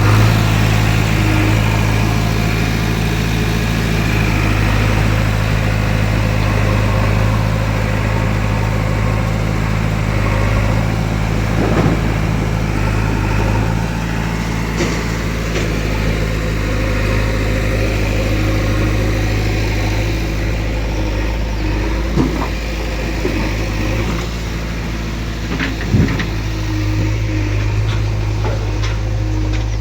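Heavy diesel engine running steadily at a constant speed, its pitch shifting slightly a few times, with a few sharp knocks and clanks.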